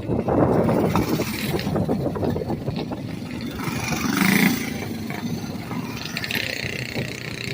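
Small racing engines of lawn mowers or go-karts running on the track, the engine noise swelling as machines pass and loudest about four seconds in.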